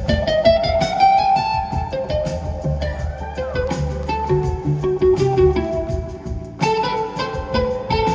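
Live band music, an instrumental passage: a plucked string melody of short notes climbing and falling over a steady bass line.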